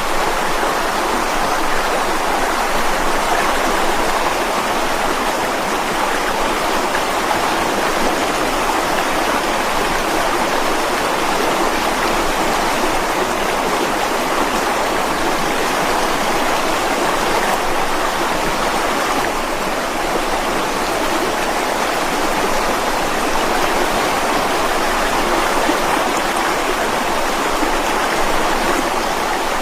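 Mountain stream rushing and splashing over rocks, a steady, unbroken water noise.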